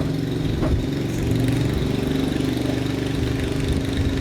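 A small engine running steadily at idle, an even low hum.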